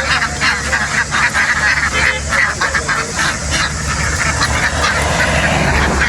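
A large flock of domestic ducks quacking all at once, a dense, continuous clamour, over a steady low hum.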